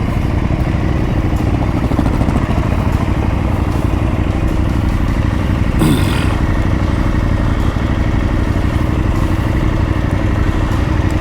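Adventure motorcycle engine running steadily while riding a rocky dirt road. About halfway through, a brief sound falls in pitch alongside a short hiss.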